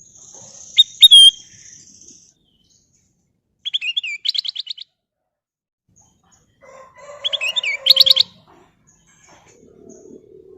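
Kutilang emas, a bulbul, singing in three short bursts of quick, sharp chirping notes, with pauses of a couple of seconds between them.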